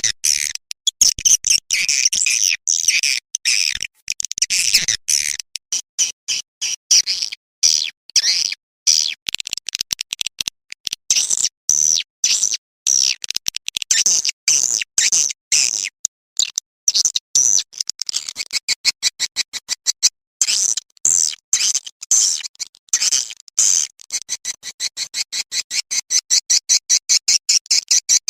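Edible-nest swiftlet calls played as a swiftlet-house lure recording: rapid, high twittering chirps in quick, uneven bursts that settle into a fast, regular run of chirps near the end.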